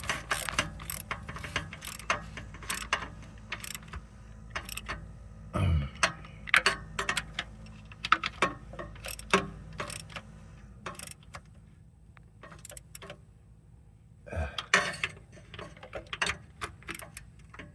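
A socket ratchet clicking in quick runs as the starter mounting bolts are tightened, with scattered clicks and metal tool clinks between the runs and a few dull knocks.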